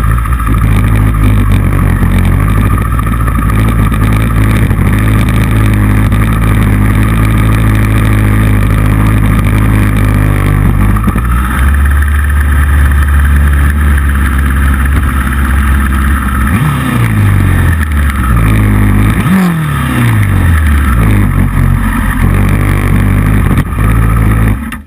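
Motorcycle engine running hard on a race track, loud and steady, heard together with rushing wind noise. About two-thirds of the way through, the engine pitch falls in several successive sweeps as the revs drop. The sound cuts off suddenly just before the end.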